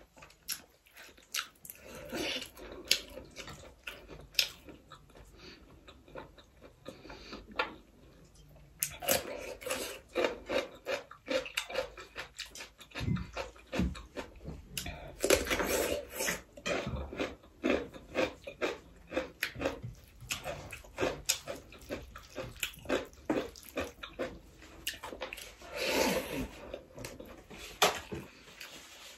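Eating sounds: wet chewing and lip smacks with many short irregular clicks, as rice and curry are eaten by hand. The sounds are sparser for a few seconds, then come in denser clusters.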